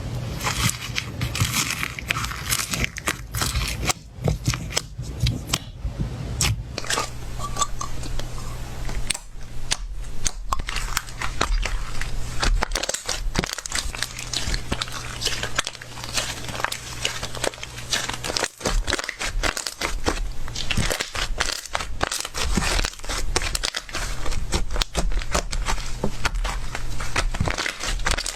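Slime being squeezed and pressed by hand, giving a continuous run of crackling and popping clicks.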